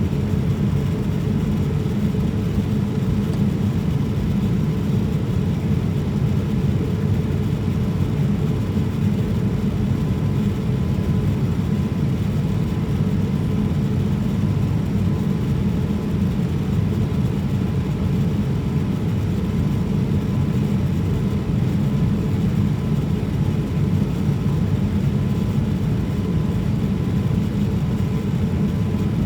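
Steady low drone of airflow and engines heard inside a Boeing 787-9's cabin in flight, with a faint thin steady tone above it.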